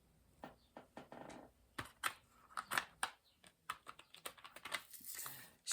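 Light, irregular clicks and taps of small hard objects being handled, several a second, a little denser near the end.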